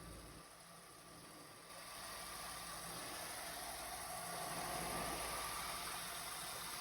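Chevy Tahoe engine idling, heard faintly under a steady hiss that grows louder about two seconds in.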